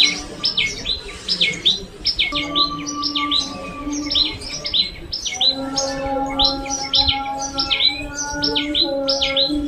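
Sparrows chirping rapidly and repeatedly, several short, sharp chirps a second without pause. A steady low hum sounds underneath, dropping out for a few seconds at a time.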